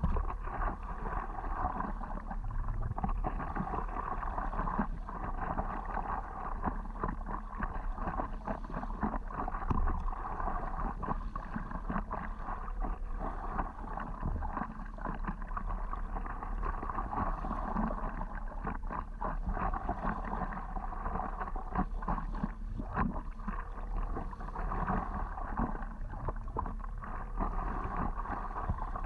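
Water lapping and splashing against a stand-up paddleboard under way, a steady wash with many small irregular splashes.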